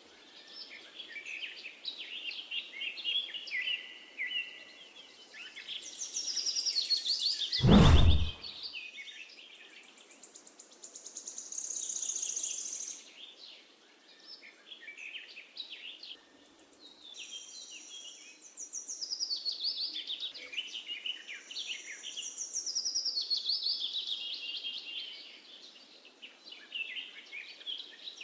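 Small birds chirping and singing in rapid, high trills, with a single loud thump about eight seconds in.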